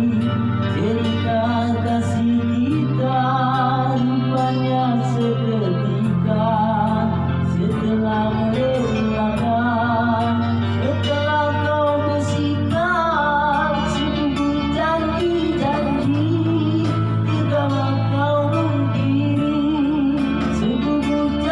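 A man singing a melody with heavy vibrato over band accompaniment, a bass line moving to a new note every few seconds under a light regular beat.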